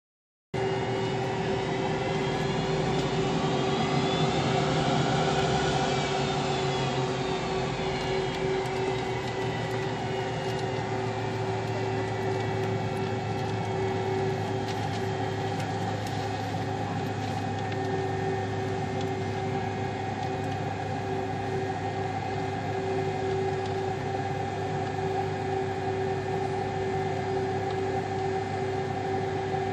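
Jet airliner engines running with a steady hum of several held tones. A few seconds in, a whine rises and then falls in pitch.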